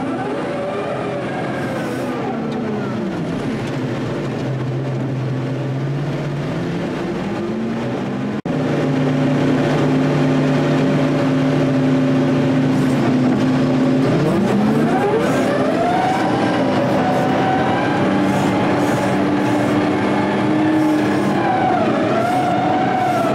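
Heavy equipment engine working: its pitch rises and falls as it is revved up and eased off, holds steady for a while, and rises and falls again. About eight seconds in there is an abrupt cut, after which it is a little louder.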